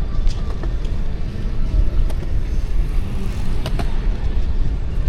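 Wind buffeting the microphone of a moving e-bike, a heavy uneven low rumble mixed with road noise, with a few sharp clicks.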